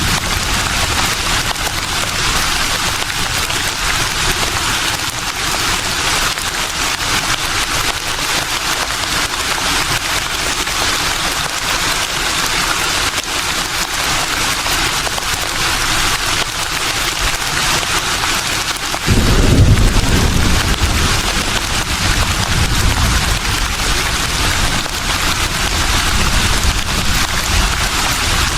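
Leaves rustling in a steady breeze, an even hiss. About two-thirds of the way through, a deep rumble of wind comes in suddenly and stays under the rustle.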